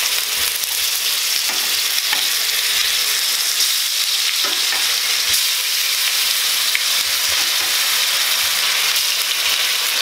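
Potato rounds sizzling steadily in hot olive oil in a frying pan as they brown, with a few light knocks as metal tongs turn them over.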